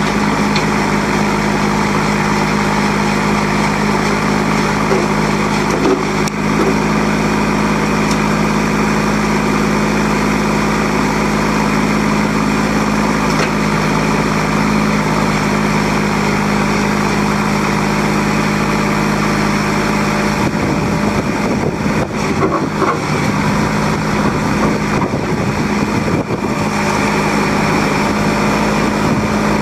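Diesel engine of a Kubota L35 tractor loader backhoe running steadily. Its note changes about two-thirds of the way through.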